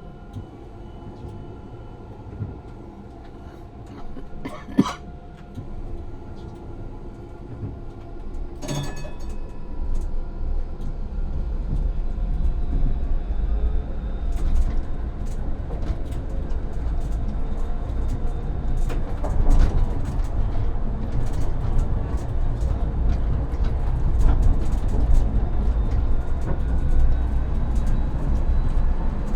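Tram heard from the driver's cab: a low hum with steady electrical tones, two sharp clacks about five and nine seconds in, then a rumble and clatter of wheels on rails that grows louder as the tram picks up speed.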